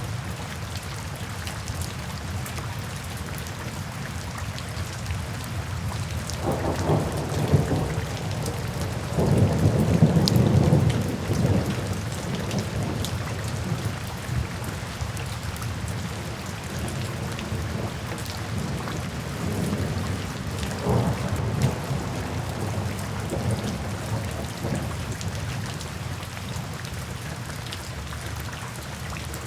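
Steady rain with several rolls of thunder. The biggest rumble comes about ten seconds in, and weaker ones follow around twenty seconds in.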